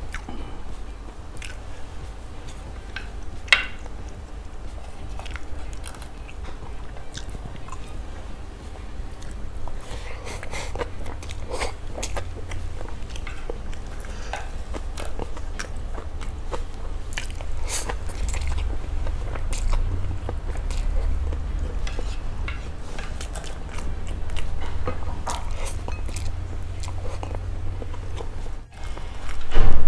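Close-miked chewing of stir-fried instant noodles, a man's mouth working through mouthfuls picked up with chopsticks, with scattered small clicks and one sharper click about three and a half seconds in.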